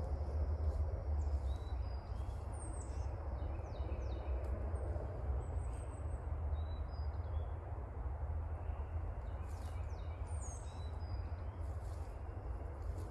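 Several wild birds calling: short high chirps and whistles, some sliding down in pitch, scattered throughout, over a steady low rumble.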